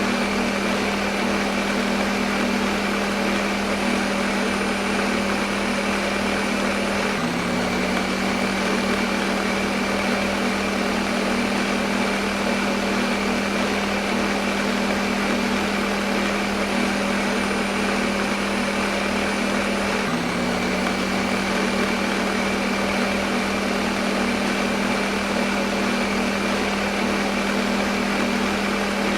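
Electric kitchen blender running continuously: a steady motor whir with a strong low hum over dense even noise. It hitches briefly about seven seconds in and again about twenty seconds in.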